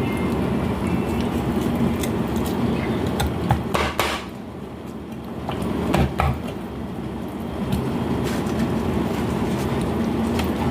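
A few sharp knocks of a knife striking a cutting board as chicken is cut, a cluster around four seconds in and again at six, over a steady low rumble.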